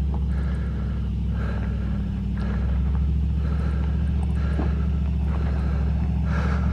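2008 Ford F-150 FX4 pickup's engine running at low, steady revs, a constant low hum, as the truck creeps along a rough off-road trail.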